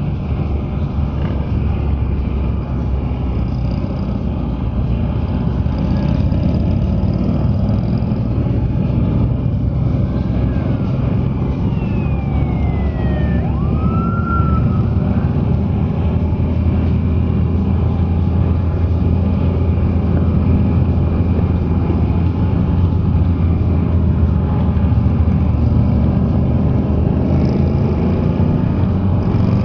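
Can-Am Spyder three-wheeled motorcycle running steadily at slow parade speed, its engine a low continuous drone under road and wind noise. Faint sliding tones come through briefly about halfway through.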